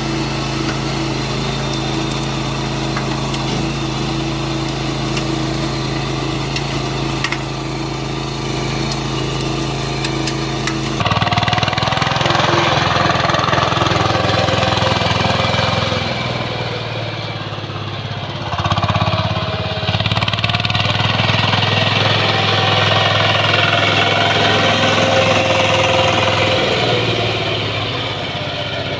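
Walk-behind tractor engines running: one runs steadily, then about eleven seconds in the sound changes abruptly to another engine whose pitch wavers, dipping and picking up again partway through.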